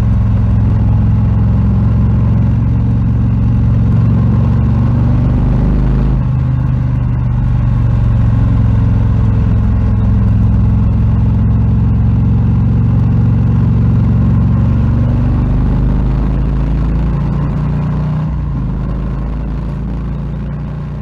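Harley-Davidson Low Rider S's Milwaukee-Eight 117 V-twin engine running steadily. Its note changes about six seconds in, and it gets quieter toward the end.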